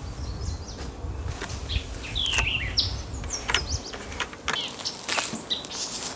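Small birds chirping and calling repeatedly, with scattered sharp clicks and knocks over a low rumble that fades out about two-thirds of the way through.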